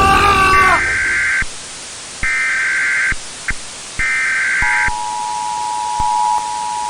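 Emergency Alert System SAME header: three bursts of warbling data tones, each about a second long with short gaps between, followed about four and a half seconds in by the steady, lower two-tone EAS attention signal.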